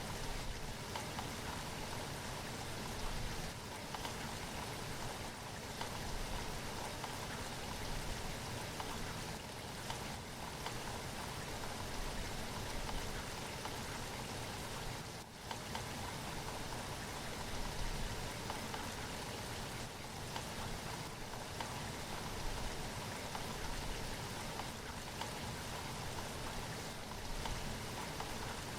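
Steady rainfall, an even hiss of rain with scattered drops, dipping briefly about halfway through.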